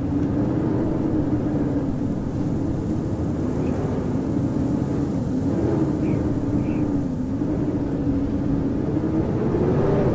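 Howling wind: a steady rush of wind noise with a low moaning tone that wavers up and down in pitch.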